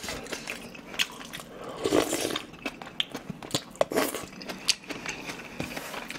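A person chewing a mouthful of kimchi fried rice, with many short, irregular wet clicks from the mouth.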